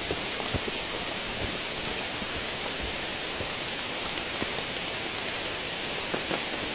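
Heavy rain falling steadily: an even hiss with scattered sharper drop hits close by.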